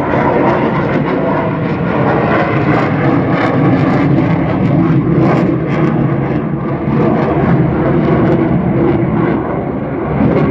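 Aircraft flying past in level flight: a loud, steady engine rumble that swells and eases slightly without stopping.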